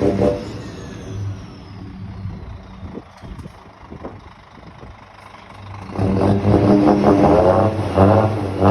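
Scania 440 truck's straight-six diesel engine running through a button-operated loud exhaust. It is revved loud, drops back to a quiet idle about half a second in, then is revved loud again from about six seconds.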